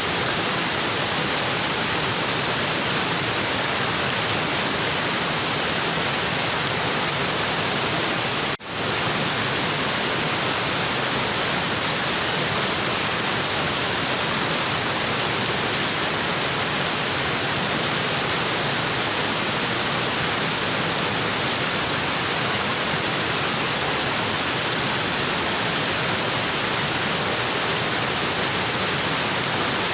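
Waterfall rushing steadily, water pouring onto rocks, with one split-second drop in level about eight and a half seconds in.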